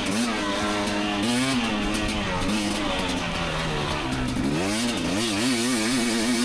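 Two-stroke dirt bike engine revving up and down under the rider's throttle, its pitch rising and falling over and over, with a long climb in revs about four and a half seconds in.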